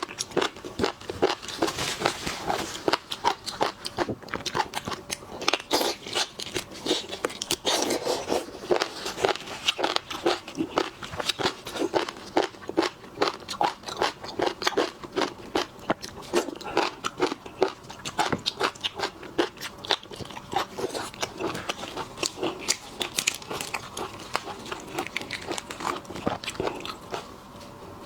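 Close-miked chewing and biting of seafood, a dense, irregular run of wet clicks and crunches.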